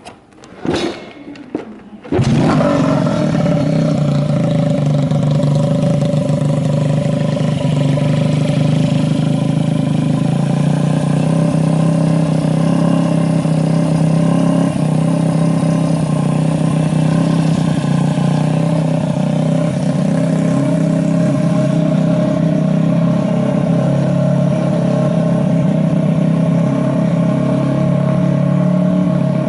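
Honda Ape 50's Takegawa 80 cc bore-up single-cylinder four-stroke engine, with Yoshimura high cam, being started from cold: a few short knocks, then it catches about two seconds in and runs steadily at an even speed. The seller advertises it as free of abnormal noises.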